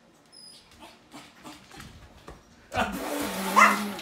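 Dog whining in short high calls, then a loud rustling scramble about three seconds in as a dog jumps up onto a fabric couch, with a rising whine over it near the end.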